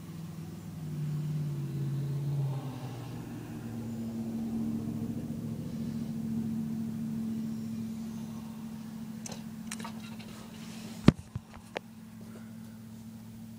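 An engine runs with a steady low hum, its pitch shifting over the first few seconds and then holding. About eleven seconds in there is a sharp knock followed by two lighter clicks.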